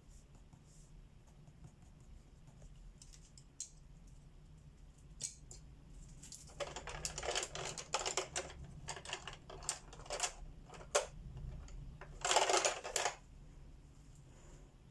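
Colored pencil scratching across paper in quick runs of short strokes from about halfway through, with a denser burst of shading near the end; a couple of light taps before that.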